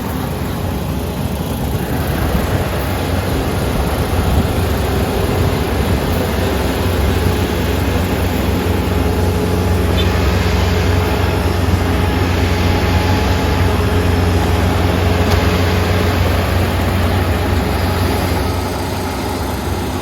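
Kubota ER470 combine harvester's diesel engine running steadily under working load, a continuous low hum with machinery noise over it. It grows a little louder a couple of seconds in and eases slightly near the end.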